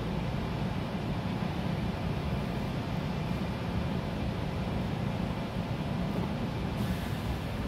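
Steady running noise heard inside a moving SEPTA Regional Rail electric commuter railcar: a low rumble of wheels and running gear under an even hiss.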